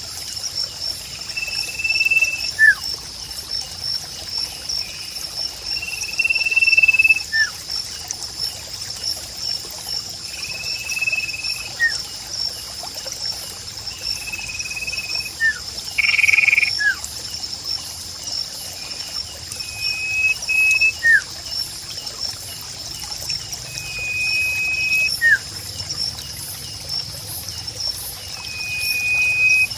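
Nature soundscape with a steady, fast-pulsing high chirring throughout, over which a bird repeats a short held whistle followed by a quick falling note, about every four seconds; one louder, harsher call comes about halfway through.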